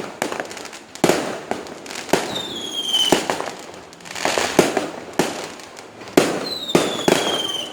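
Fireworks going off in quick succession: sharp bangs of bursting shells with crackle after them, and twice a falling whistle, about two seconds in and again about six seconds in.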